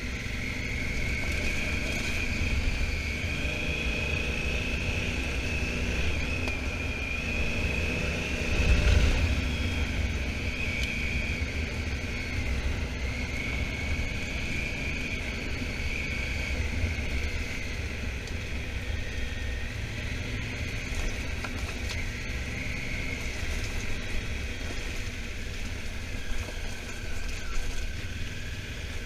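Honda Africa Twin motorcycle riding at road speed, its engine running under a heavy low rumble, with a steady whine that drifts slowly up and down. The rumble swells louder about nine seconds in.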